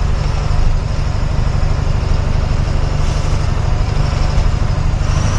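Loaded cargo truck on the move: a steady, low engine and road rumble.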